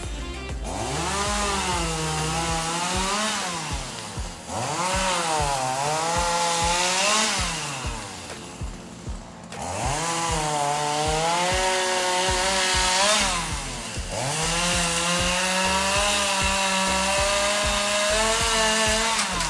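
Two-stroke chainsaw cutting wood, its engine pitch repeatedly rising and falling under load, with a few brief drops in throttle.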